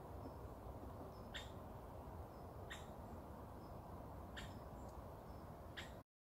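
A bird repeating a short, sharp call about every second and a half, with a fainter thin high note between the calls, over a steady low rumble. The sound cuts out suddenly just before the end.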